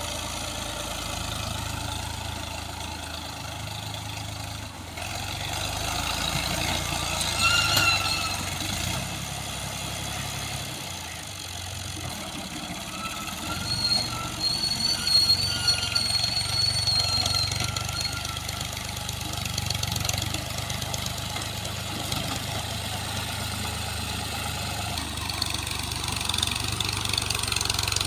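Al-Ghazi tractor's diesel engine running steadily while being test-run, with brief high-pitched squeals about seven seconds in and again around fourteen to eighteen seconds in.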